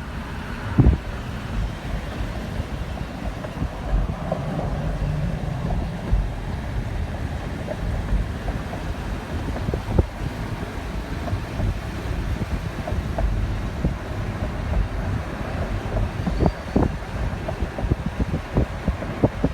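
Wind buffeting the microphone: a steady low rumble with scattered short, sharp knocks.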